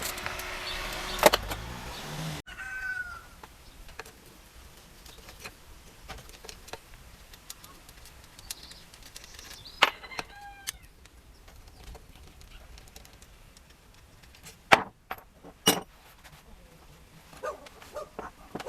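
A few sharp metallic clinks of engine parts being handled during the teardown, with short bird chirps in the background. A louder, noisier stretch in the first two seconds cuts off suddenly.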